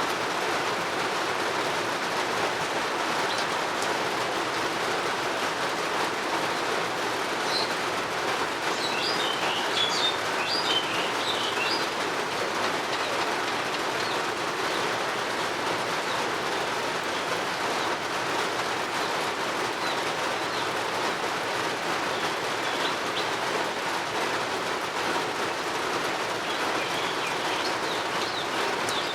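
Steady rain falling, with small birds chirping in short high bursts, busiest about a third of the way in and again near the end.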